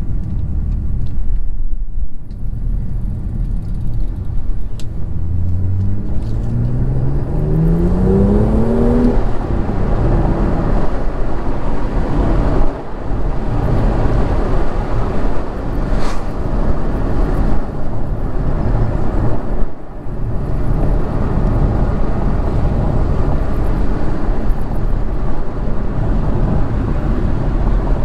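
BMW M2 Competition's twin-turbo straight-six engine driving under way with steady road and tyre noise. The engine note rises in pitch as the car accelerates through a gear about five to nine seconds in, with brief dips in level about two, thirteen and twenty seconds in.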